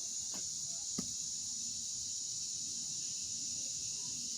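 Steady high-pitched chirring of an insect chorus, with a couple of faint clicks in the first second.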